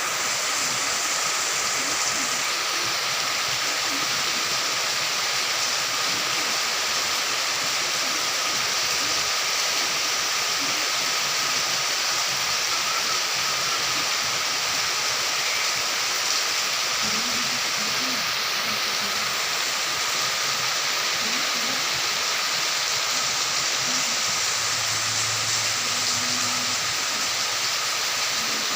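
Steady rain falling in a forest: a dense, even hiss of drops on leaves that holds constant throughout, with a thin steady tone running underneath.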